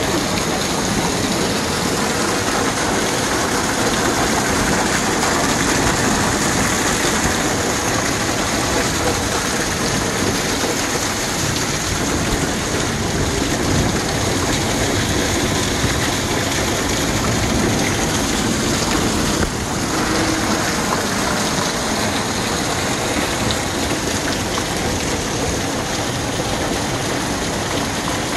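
Heavy rain pouring down, a loud, steady wash of noise without a break.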